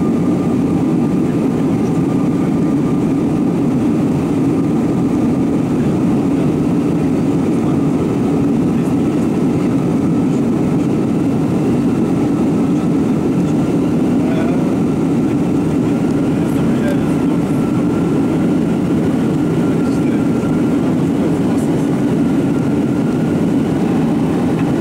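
Steady roar of jet engines and rushing air heard inside the cabin of an Airbus A321 in flight, with a thin steady whine above it.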